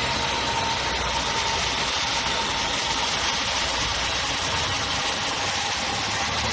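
Voleex C30's 1.5 VVT petrol engine idling steadily with a ticking clatter from inside the engine, which is put down to a VVT fault or a possibly knocking crankshaft.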